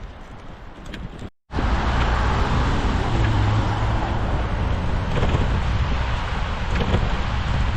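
Steady traffic noise from passing cars, a continuous low rumble. It comes in loud after a brief dropout to silence about a second and a half in.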